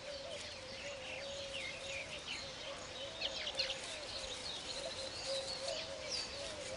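A colony of weaver birds chirping, with many short, quick chirps overlapping continuously. A faint steady hum runs beneath.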